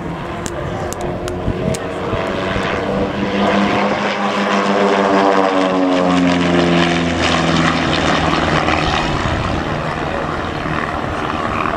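Pitts S-1D aerobatic biplanes' piston engines and propellers flying past, the engine note swelling and then dropping in pitch as they go by.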